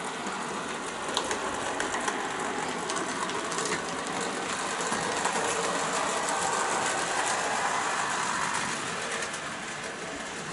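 OO gauge model locomotive running along the track: a steady electric-motor whir and wheel rumble with small clicks over the rail joints, growing louder in the middle and easing off near the end as it passes.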